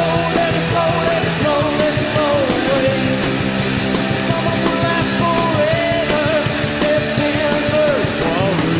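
A rock band playing live: electric guitars, bass and drums under a wavering lead melody line, sung or played on guitar.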